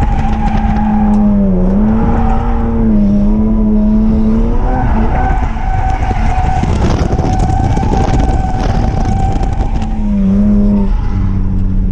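BMW E46 M3's inline-six engine pulling hard through a drift, its revs held high with several quick dips, over a continuous hiss of sliding tires.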